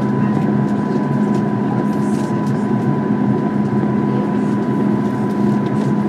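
Steady jet engine and airflow noise inside the cabin of a Boeing 737 MAX 8, its CFM LEAP-1B engines running, with a constant low hum and a thin steady whine over it.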